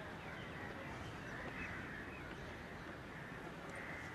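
Faint open-air ambience with several short bird calls at a distance.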